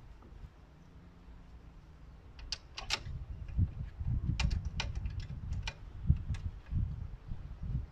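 Hand tools and parts being handled: irregular light clicks and taps over low knocking, growing busier after about two and a half seconds.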